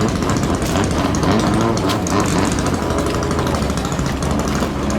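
Racing long-tail boat engines of the Toyota 5K class, run hard with a fast, rattling exhaust note.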